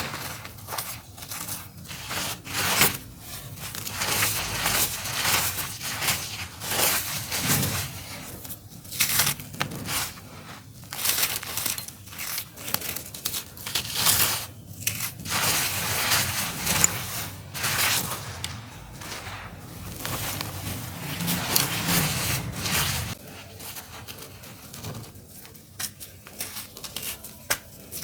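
Dry, crunchy dirt clumps being crumbled and crushed by hand: a gritty crunching and crackling that swells and fades in waves, with sharp crackles throughout, easing off near the end.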